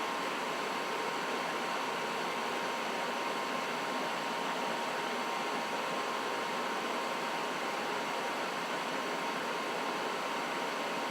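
Trane XB80 gas furnace running steadily: an even rush of blown air with a thin steady tone above it.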